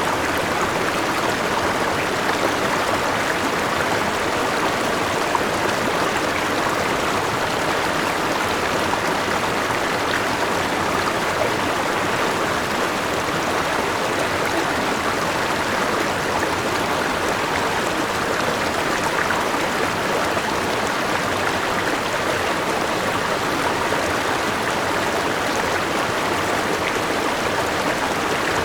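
Forest river with a small waterfall, water rushing and splashing steadily.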